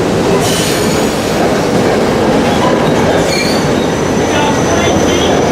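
Electric commuter train running past at close range: a steady, loud rumble of wheels on rail, with a thin high whine of wheel squeal coming in about halfway through.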